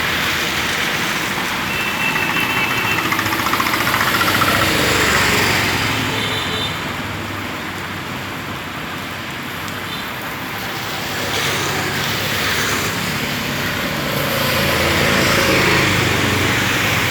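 Heavy rain with vehicles passing on a wet road: a steady hiss that swells twice as traffic goes by.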